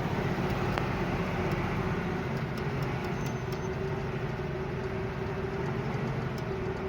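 Loaded coal truck's diesel engine running steadily on the road, a continuous low drone with scattered faint ticks and rattles.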